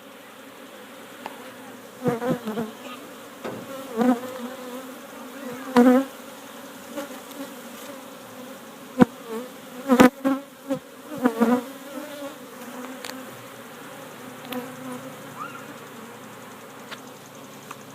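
A swarm of honeybees humming steadily around an opened hive. Louder buzzes with bending pitch come and go several times, and there are two sharp clicks about nine and ten seconds in.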